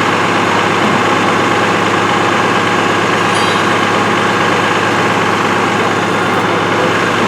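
A fire engine's engine idling, a loud steady drone.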